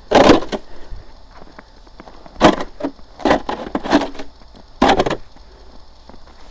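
Short crunching scrapes on icy, packed snow, five of them at uneven spacing, about a second apart.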